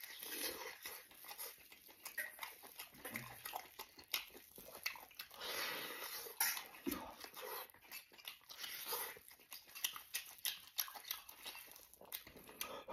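A person biting and tearing meat from a bone-in stewed lamb leg and chewing it, heard as irregular clicks and short noisy mouth sounds.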